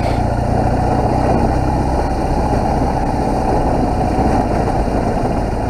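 BMW R1200GS boxer-twin engine running steadily while the motorcycle is ridden, with road and wind noise, picked up by a helmet-mounted camera's built-in microphone.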